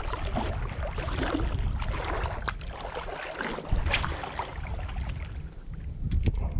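Water sloshing and splashing around the legs of someone wading through shallow water, under a low rumble of wind buffeting the microphone, with a few sharp little splashes or clicks.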